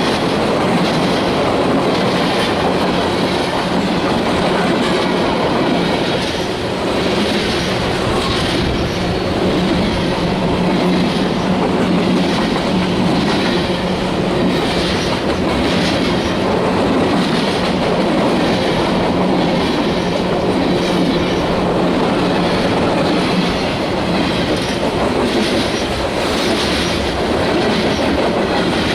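Freight train cars rolling past, the steel wheels clicking over the rail joints in an even, repeating rhythm over a steady rumble.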